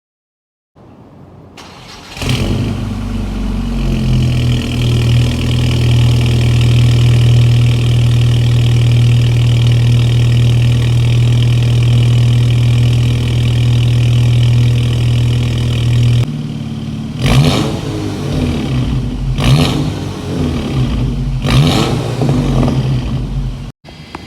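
Volkswagen Scirocco engine cold-started: it catches about two seconds in and runs at a steady, fast cold idle. From about sixteen seconds the idle drops a little, and the throttle is blipped three times in short revs.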